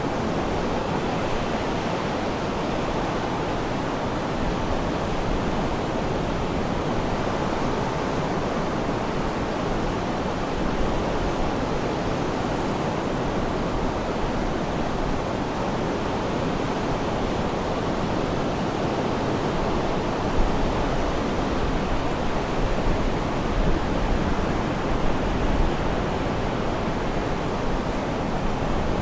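Sea surf washing ashore, a steady rushing noise with slight swells in loudness and no bird calls standing out.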